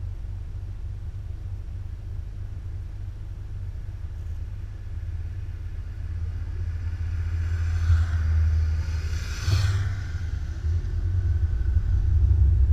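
Low, steady rumble of wind and road noise on a moving motorcycle, growing louder toward the end. Another vehicle rushes past between about eight and ten seconds in.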